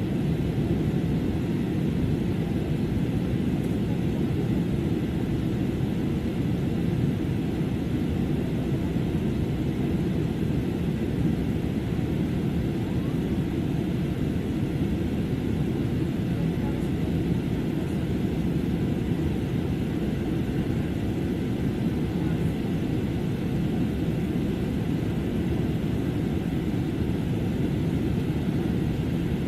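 Steady in-flight cabin noise inside a jet airliner: a constant low rumble of engines and airflow, with a faint steady whine above it.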